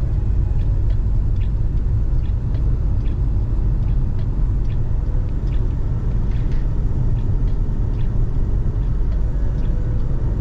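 Steady low rumble of a car on the move, road and engine noise, with faint scattered ticks.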